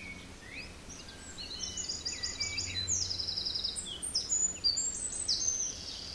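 Several birds chirping and trilling, with short rising calls and fast runs of repeated notes, growing busier about two seconds in, over a faint low steady hum.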